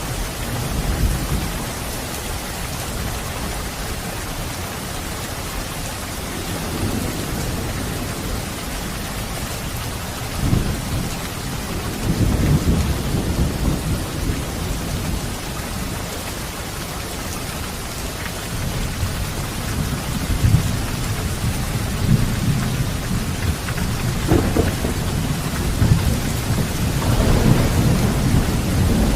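Steady rain falling, with low rumbles of thunder rolling in and out several times, building a little toward the end.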